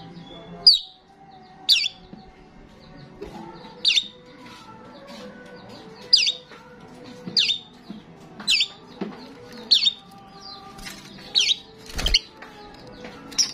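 Starling calling: sharp, high chirps repeated about once a second, ten or so in a row, over a faint low background.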